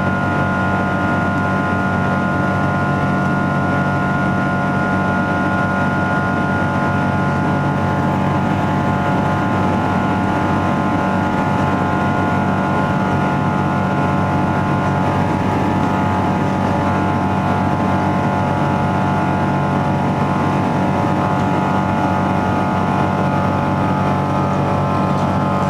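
Boeing 777-200ER's Rolls-Royce Trent engines heard from inside the passenger cabin during climb: a steady, loud drone with a constant high whine over it.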